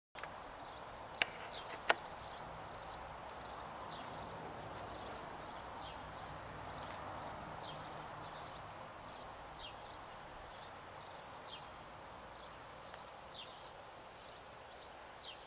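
Short, high bird call notes, each slightly falling in pitch, repeated about once a second over a steady background rush. Two sharp clicks about one and two seconds in are the loudest sounds.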